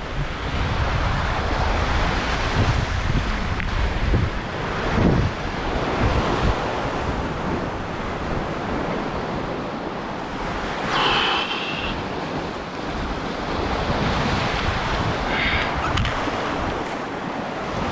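Sea waves washing against a rocky shore, with wind buffeting the microphone. Two brief high-pitched sounds cut through, one about eleven seconds in and a fainter one a few seconds later.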